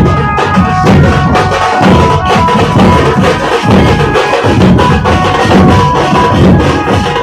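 Dhol pathak drumming: many dhol drums beating a fast, dense rhythm, loud and continuous, with a few held higher ringing notes above the drums.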